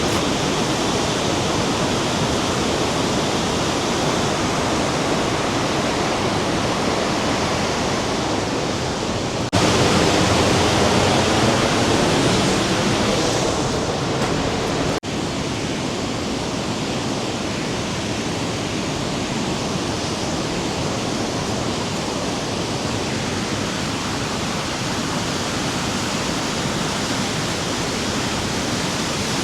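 Rhine Falls' water rushing and crashing in a steady roar of noise. It jumps louder abruptly about a third of the way in and drops back just as abruptly about halfway through.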